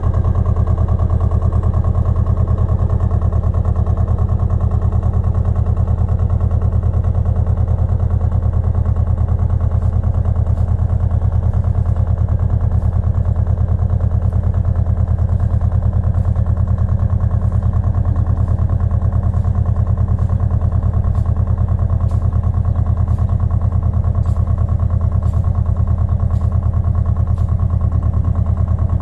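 Pasquali 980 EX tractor engine running at a steady speed without revving, its low hum even throughout. From about a third of the way in, faint regular ticks of a bit more than one a second sound over it.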